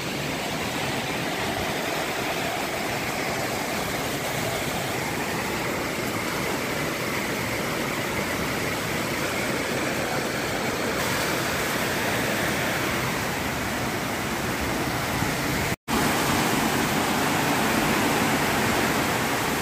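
Strong storm wind rushing steadily in a dense, even noise, with a momentary cutout about sixteen seconds in.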